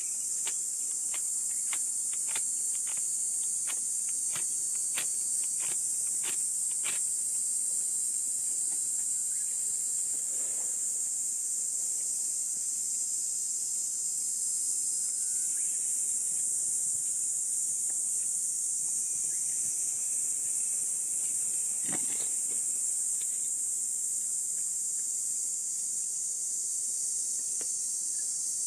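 A steady high-pitched chorus of insects, crickets or similar, running unbroken. A quick run of a dozen or so sharp clicks comes in the first seven seconds, and a single knock about 22 seconds in.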